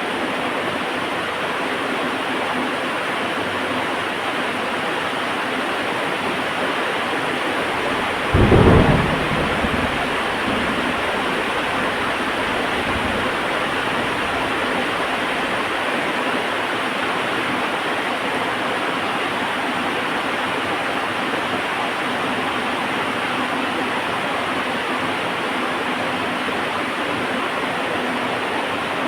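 Heavy rain falling steadily, with one sharp thunderclap about eight seconds in that dies away as a low rumble over the next few seconds.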